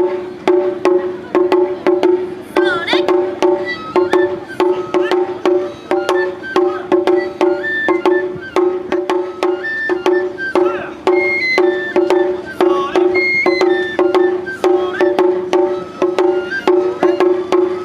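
Japanese taiko drums playing a steady rhythm of sharp strikes, about three a second, with a ringing pitched tone under them and a few short sliding high notes over the top.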